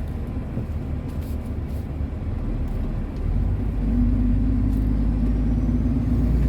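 Truck's diesel engine heard from inside the cab, running steadily; about three seconds in it grows louder and deeper as it takes more load, with a faint rising whine above it.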